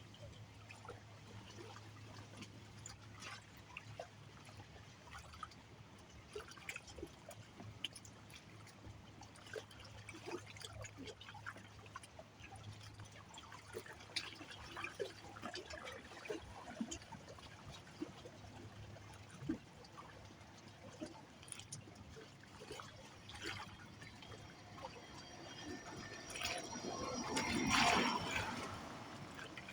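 Water trickling and lapping, with many small splashes and drips. Near the end a louder rush of water swells and falls away.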